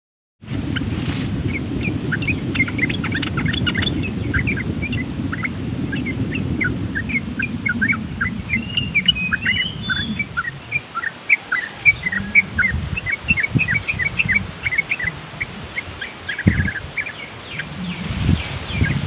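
Yellow-vented bulbul (trucuk) chattering in a fast, continuous run of short chirps, over a low wind rumble that fades about halfway through. A few low thumps come near the end.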